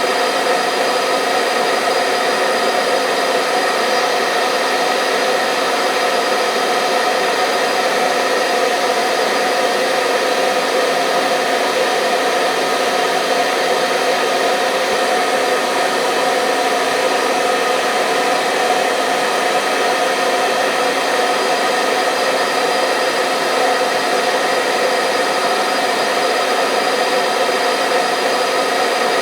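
Hair dryer running continuously at a steady level: an even hiss of airflow with a constant motor hum and whine, used as white noise to lull a baby to sleep.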